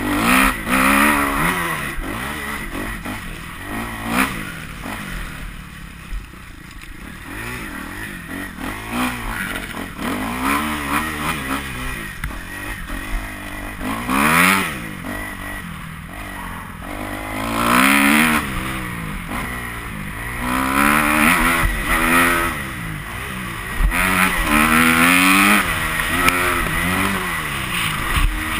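Motocross bike engine revving up and shutting off again and again, its pitch climbing and dropping as the throttle is opened and closed, with several louder surges.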